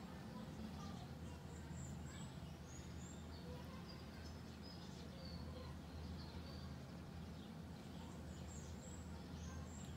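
Birds chirping faintly, scattered short high chirps, over a steady low hum.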